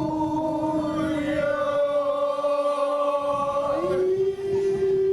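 Korean field work song (deulsori) sung in a long drawn-out held note, the pitch stepping up a little about four seconds in.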